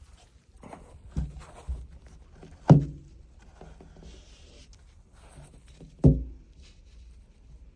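A few sharp knocks and thumps with light rattling and rustling in between. The loudest comes between two and three seconds in and another about six seconds in. These are hands handling the plastic dash trim and the instrument cluster of a truck dashboard.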